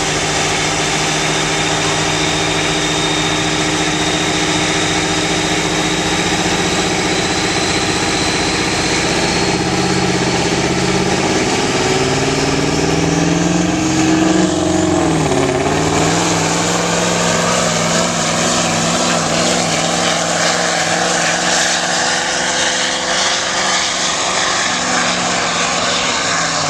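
1995 Freightliner semi truck's diesel engine running hard under load on a truck pull, its pitch climbing for several seconds, dipping sharply about fifteen seconds in, then holding steady. A faint high whine climbs along with it through the first half.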